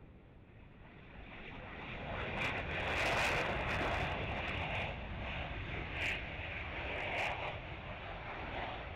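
Jet engine noise from a Panavia Tornado GR4's twin RB199 turbofans, a rushing roar that swells over the first few seconds and then holds loud.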